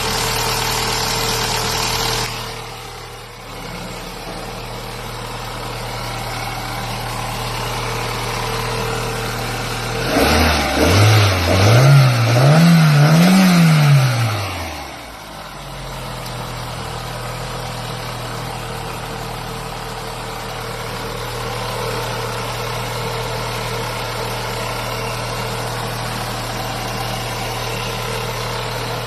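Toyota 3S-GTE turbocharged four-cylinder engine idling, louder for the first couple of seconds before settling. About ten seconds in it is revved in several short blips, each climbing higher than the last, then drops back to a steady idle.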